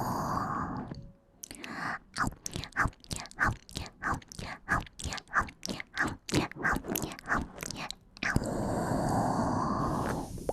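Close-miked ASMR chewing and biting: a steady run of crisp bites, about three a second. It falls between stretches of a steady soft hiss, which stops about a second in and comes back near the end.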